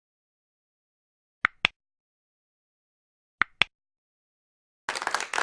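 Two pairs of short, sharp clicks about two seconds apart, then clapping and applause starting near the end.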